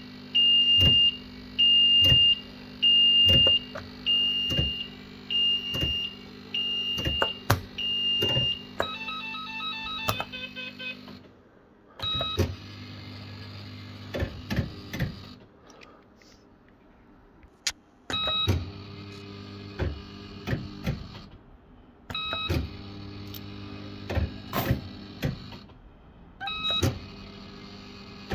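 Bell-Fruit FireCracker fruit machine: about nine high beeps roughly a second apart, then a quick run of stepped electronic tones. The reels then spin several times, each spin opening with a short tone, the reel motors humming steadily and clicking as the reels stop.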